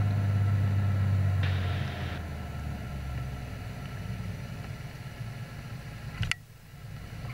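Beechcraft Bonanza's piston engine droning in the cabin, dropping off about two seconds in as the power comes back, leaving a quieter steady rumble. A sharp click near the end, followed by a brief hush.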